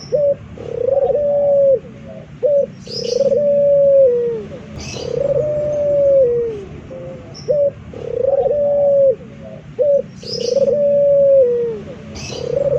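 Male puter (domestic ringneck dove) cooing: a short note followed by a long coo that falls away at its end, repeated about every two and a half seconds. Faint high chirps from a small bird come in between the coos.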